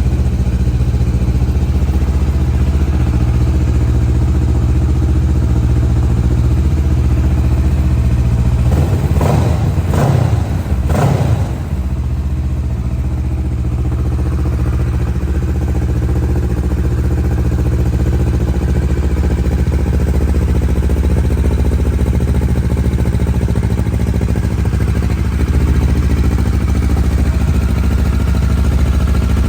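2013 Kawasaki Versys 650's parallel-twin engine idling steadily, blipped twice in quick succession about ten seconds in.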